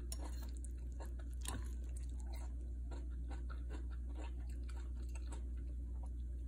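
Close-miked chewing and wet mouth sounds: soft, irregular little clicks throughout, over a steady low hum.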